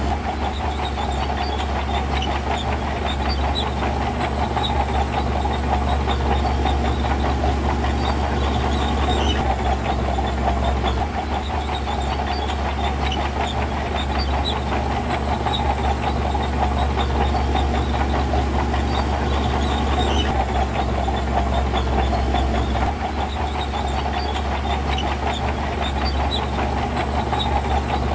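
Heavy diesel earthmoving machinery running steadily under load, its engine note shifting slightly a few times.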